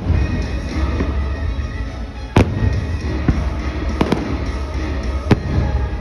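Aerial firework shells bursting: sharp bangs about two and a half seconds in, a quick pair near four seconds and another near five and a quarter, over a continuous low rumble, with music playing beneath.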